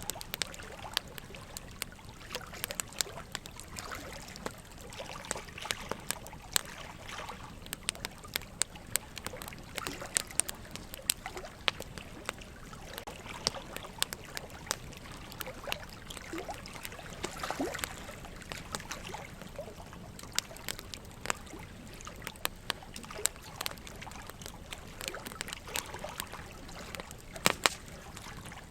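Burning logs in a wood fire crackling, with many irregular sharp snaps and a couple of louder pops near the end, over a steady trickle of running water.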